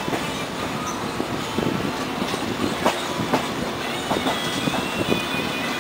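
Passenger train running on the track, its wheels clicking irregularly over rail joints over a steady rumble, with a thin high squeal from the wheels that wavers in pitch.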